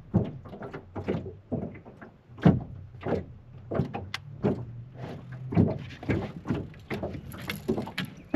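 Irregular knocks and rattles of gear being handled in a fishing boat, with a low steady hum for a few seconds past the middle.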